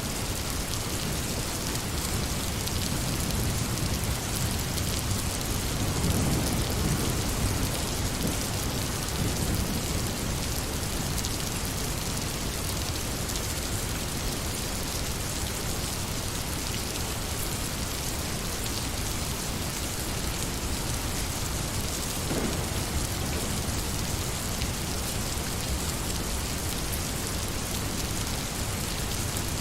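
Steady, dense rain falling, an even hiss throughout, with a low rumble that swells and fades a few seconds in.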